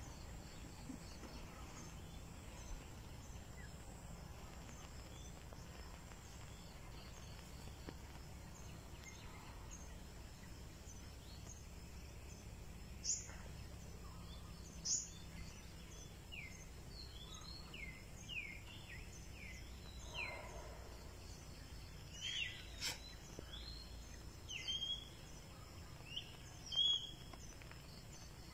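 Outdoor ambience of faint steady insect trilling over a low background rumble. About halfway through, a bird starts a series of short, sharp, falling chirps that grow more frequent, with the loudest near the end.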